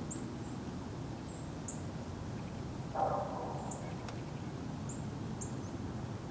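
Outdoor winter ambience: small birds give short, very high, thin calls at intervals. About three seconds in comes one louder, lower bird call, all over a steady low background rumble.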